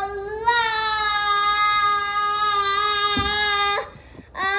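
A child singing a long held note for about three seconds, sliding up a little at the start, then stopping before a second short sung note near the end.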